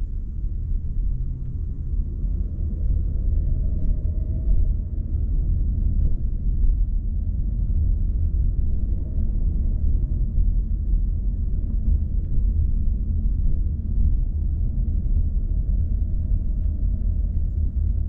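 Car driving: a steady low rumble of engine and tyres on the road.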